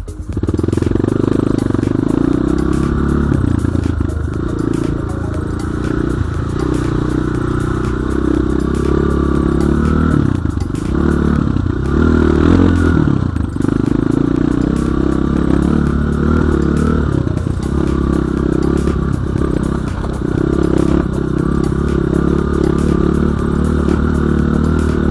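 Enduro dirt bike engine running as it is ridden, the revs rising and falling.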